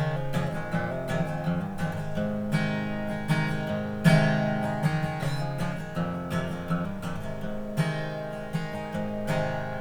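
Acoustic guitar strummed in a steady rhythm of strokes, instrumental with no singing.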